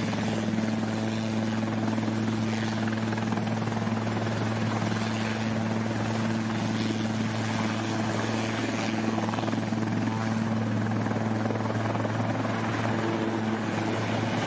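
Emergency helicopter running steadily: a constant low hum from the rotor and engine over a broad rushing noise, with no change in pitch and no sudden bangs.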